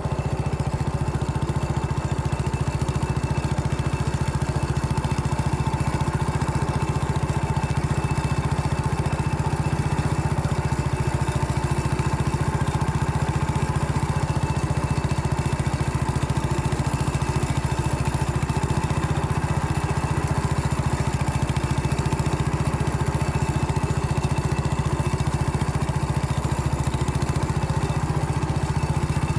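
An engine running at an even, unchanging speed throughout.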